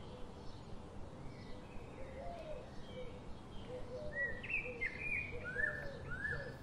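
Birds chirping and calling over a steady background hiss, with a run of louder, rising chirps from about four seconds in.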